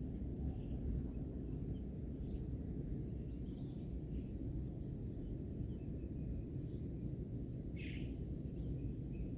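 Outdoor nature ambience: insects keep up a steady high-pitched trilling, one strand of it pulsing, over a low rumble. Faint bird chirps come and go, and one short call sounds near the end.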